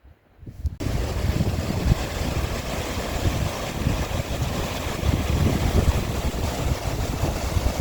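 Steady rush of a mountain stream, mixed with wind buffeting the microphone as gusty low rumbling. It starts abruptly about a second in.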